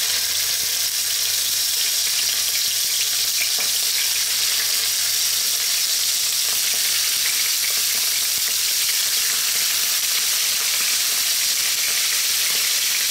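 Thin slices of pork liver sizzling steadily in hot cooking oil in a nonstick frying pan, with more slices being laid into the oil.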